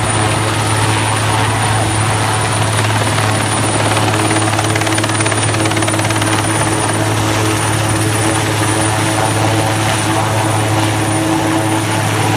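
Helicopter running steadily: a loud, continuous drone with a strong low hum that does not change.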